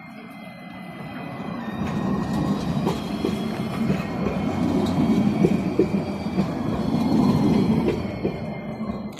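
An Alstom Citadis tram passes on its rails, its rumble growing to a peak in the second half and fading near the end, with a few steady high whining tones and scattered clicks from the wheels on the rails.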